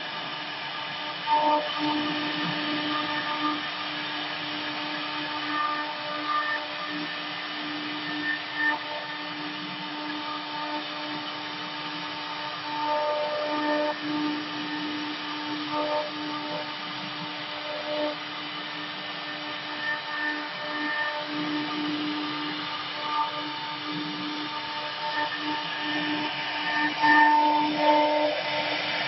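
Two-spindle CNC router carving wood: the spindle motors whine steadily as the bits cut, with small swells in level as the cut changes.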